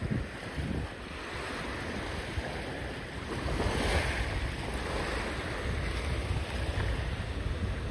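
Sea waves washing in, one swelling louder about halfway through, with wind buffeting the microphone.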